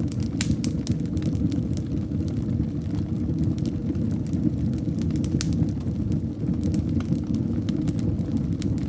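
Fire in a fireplace burning, a steady low rumble of flames with frequent irregular crackles and pops.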